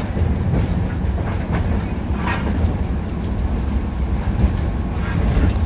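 Tram running along its track, heard from inside the car: a steady low rumble of the wheels on the rails, with a few sharp clacks over rail joints.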